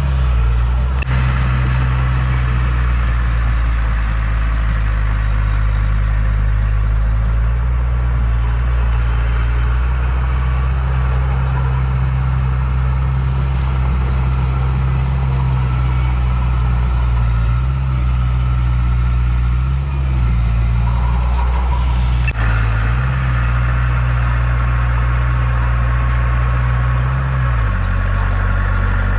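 Heavy diesel engine of earth-moving machinery running steadily near idle, its pitch dipping and recovering a few times, with a sharp knock about two-thirds of the way through.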